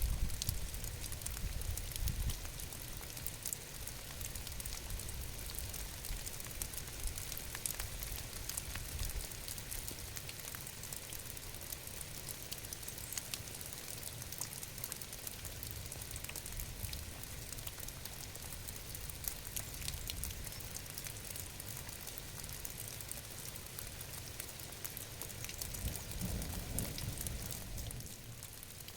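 Steady rain with many small drops pattering on a surface, with a low rumble underneath.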